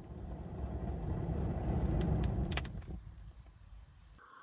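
Air blown hard onto a campfire's embers to get the newly added sticks burning: a low rushing rumble that swells and dies away after about three seconds, with a few sharp crackles near its peak.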